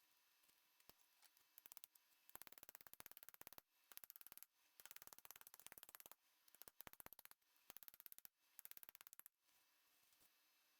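Rapid mechanical clicking in about five runs of a second or so each, with short pauses between, during hand reassembly of a milling machine's spindle quill.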